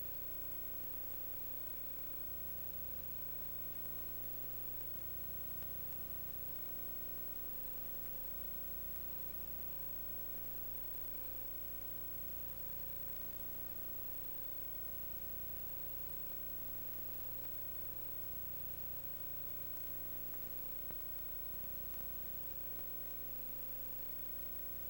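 Steady electrical hum and hiss with a constant mid-pitched tone, unchanging throughout, with no other sounds.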